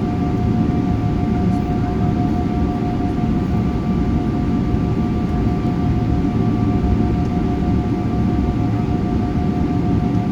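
Airliner cabin noise heard from inside the cabin: a steady low rumble of the jet engines and air system, with two steady whining tones on top.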